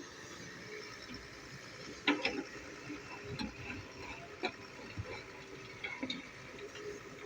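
Doosan DX140 excavator at work: a faint steady engine drone with irregular sharp clanks and knocks, the loudest about two seconds in, then several more spaced about a second apart.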